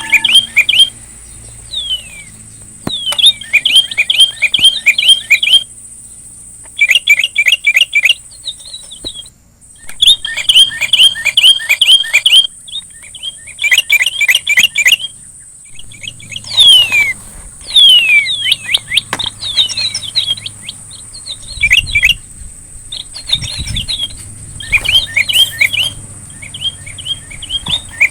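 A small songbird that Indonesian bird keepers call the sri rejeki is singing. It sings phrases of a few seconds, each a run of quick repeated chirps with a few falling whistled slurs, separated by short pauses. A steady high-pitched hiss runs underneath.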